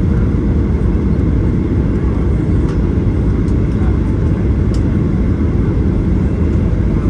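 Steady loud rumble inside the cabin of a Boeing 737-800, engine and airflow noise heard from a window seat, with a few faint ticks.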